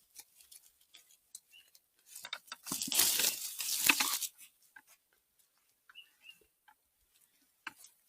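Rustling and crackling of forest floor litter (leaves, needles and twigs) being trodden or pushed through for about two seconds in the middle, with scattered small snaps and a few short bird chirps.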